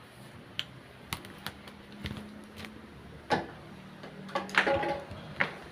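Scattered light clicks and knocks, with a louder cluster of clatter about four and a half seconds in.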